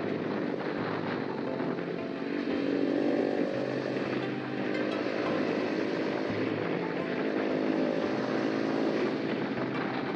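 Honda RS150 motorcycle's single-cylinder four-stroke engine running while under way, with wind rushing over the action camera's microphone.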